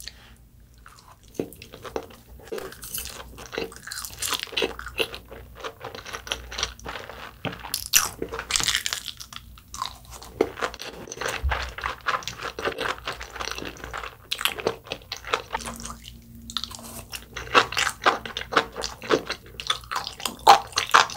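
Close-miked chewing of sushi: a dense, irregular run of wet mouth clicks and smacks, pausing briefly about sixteen seconds in.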